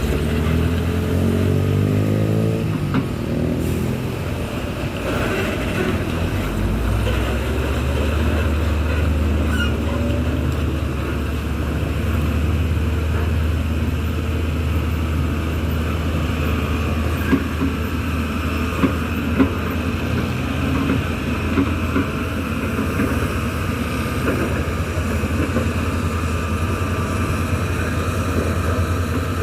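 Heavy diesel engine running steadily under load, its pitch falling over the first few seconds. A few short knocks come about two-thirds of the way through.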